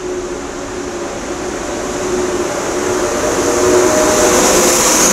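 Trenitalia Frecciarossa high-speed train running along a station platform: a steady rush of wheels on rail that grows louder, with a few held whining tones underneath.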